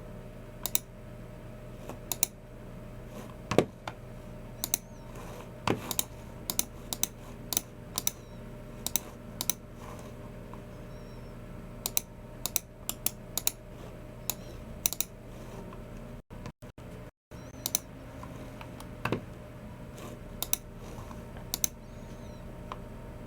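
Typing on a Logicool MX Keys Mini low-profile scissor-switch keyboard: scattered, irregular keystrokes with short pauses. A steady low hum runs underneath, and the sound cuts out for a moment about two-thirds of the way through.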